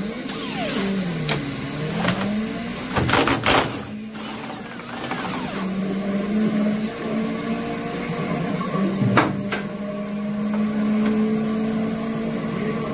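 Small electric power tool motor running under changing load, its pitch dipping and recovering as it bites, with a few sharp knocks against metal.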